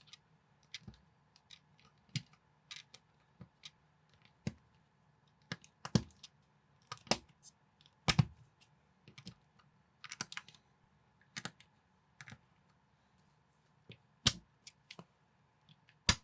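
Plastic building bricks clicking and snapping together as a Lego-compatible model is assembled, in irregular sharp clicks with a few louder snaps.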